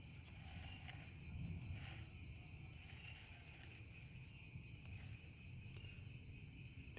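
Quiet background ambience: a faint low rumble under a thin, steady high-pitched tone.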